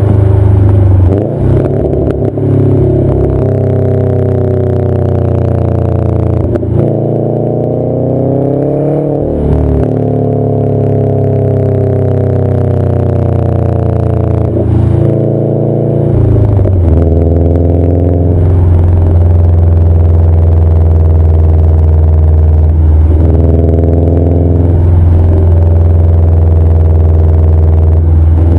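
Subaru WRX's turbocharged 2.5-litre flat-four heard through a CNT catback exhaust while driving, with a strong low drone. The engine note sinks and climbs slowly and breaks off and picks up again several times as the revs change.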